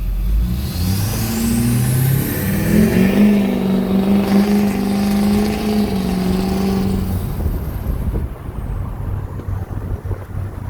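A 2006 LBZ Duramax 6.6-litre V8 turbodiesel with an MBRP 4-inch straight-pipe exhaust, heard from inside the cab under hard acceleration. The engine note climbs in steps for about seven seconds, with a high whistle rising in pitch in the first two seconds. After that the throttle comes off and the sound drops back to a lower rumble.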